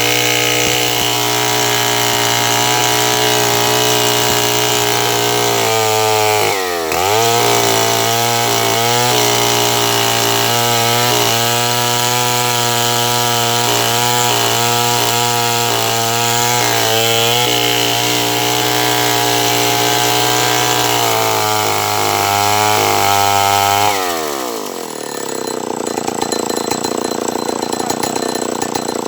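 Stihl 070 two-stroke chainsaw running at high revs while cutting wood. The engine pitch dips and picks up again about a quarter of the way in, wavers under load through the middle, then drops toward idle near the end before revving up again.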